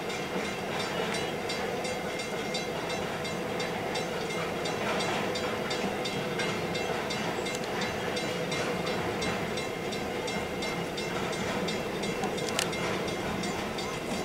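Freight train of mostly empty container flat wagons rolling slowly across a level crossing, heard from inside a waiting car. There is a constant rumble and clatter, a few steady tones, and an even repeating click about three times a second.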